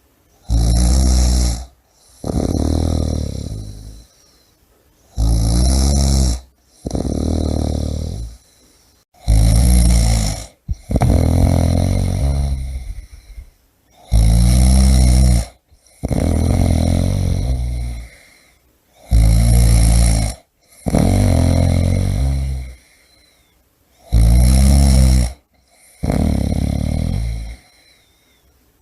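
A person snoring loudly in a steady rhythm. Each breath brings a short rattling snore and then a longer, fading one, about every four to five seconds.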